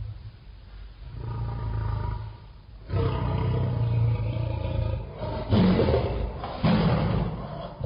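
Lion roaring: about four deep roars with short gaps between them, the last two the loudest.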